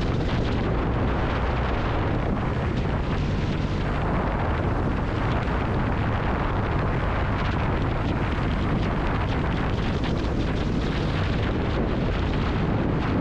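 Kawasaki W800 Cafe's air-cooled parallel-twin engine running steadily under way, a low rumble with the rush of riding air over it.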